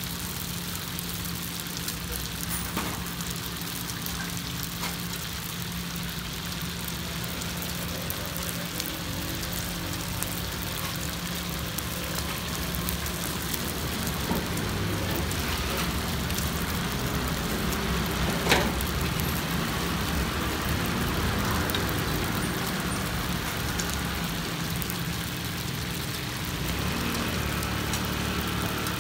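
Pan-fried stuffed buns sizzling in oil on a large flat griddle, a steady hiss, with occasional clicks of metal tongs against the pan and a steel tray, the sharpest one about two-thirds of the way through. A steady low hum runs underneath.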